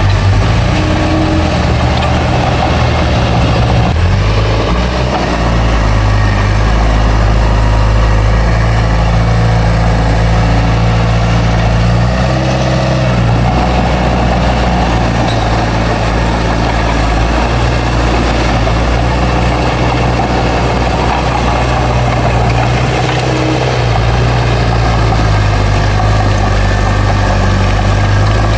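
Bulldozer's diesel engine running steadily, its pitch changing briefly a few times as the load shifts.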